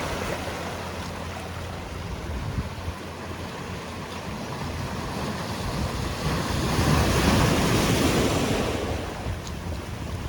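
Sea waves washing onto a rocky shore, with one larger wave surging in and breaking about two-thirds of the way through, then drawing back.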